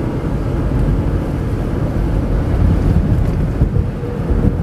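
Steady low rumble of a car driving at freeway speed, heard from inside the cabin: engine and tyre noise on the road.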